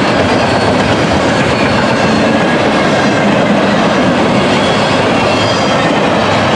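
Union Pacific double-stack freight train rolling past, a loud, steady rumble of steel wheels on rail with faint high squealing tones over it.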